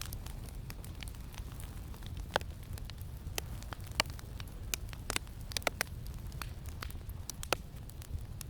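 Campfire crackling, with irregular sharp pops, a few louder than the rest, over a steady low rumble of wind.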